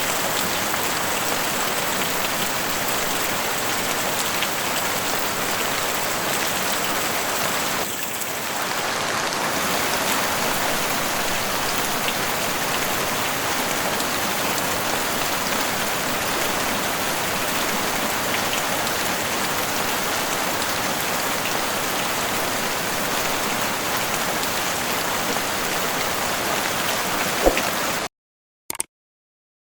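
Heavy rain drumming on a house roof, a dense steady hiss. It cuts off suddenly near the end, leaving silence broken by one short blip.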